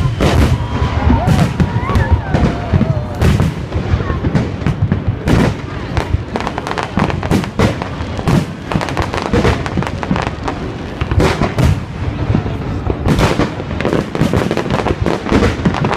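Fireworks display: a dense, continuous barrage of shell bursts and crackling bangs, several a second.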